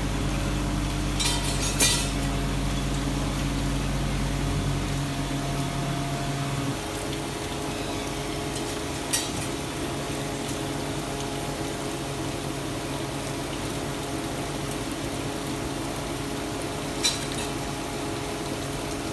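Workshop machinery running with a steady hum that winds down about five to seven seconds in, leaving a fainter steady tone. A few sharp metal clinks come at intervals, three in all.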